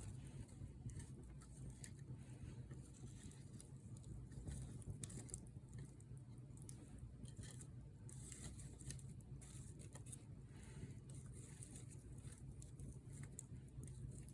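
Wood campfire burning, with faint scattered crackles and pops over a low steady rumble.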